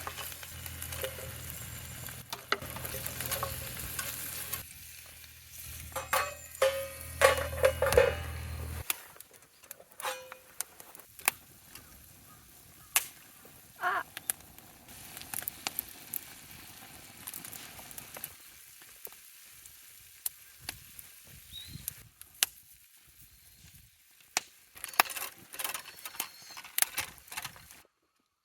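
Food sizzling as it fries in a pan, with scattered clicks and taps of cooking utensils. The sizzle is loudest in the first third, then drops off abruptly, leaving sparse clicks and taps.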